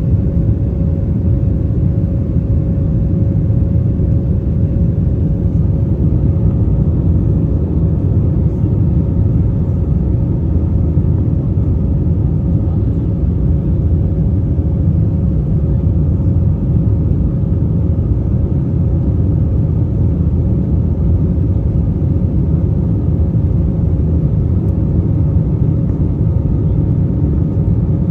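Steady cabin noise of an Airbus A320-family airliner, heard inside the cabin: a loud, even rumble of engines and airflow with a steady humming tone over it.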